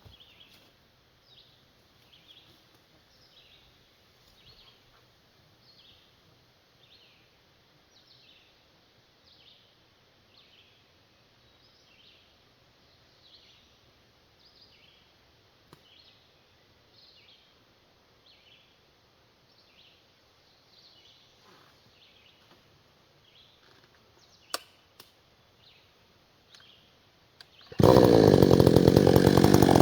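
A faint high chirp repeats steadily, less than a second apart, with a couple of sharp clicks. Near the end a chainsaw comes in abruptly at full loudness and runs steadily.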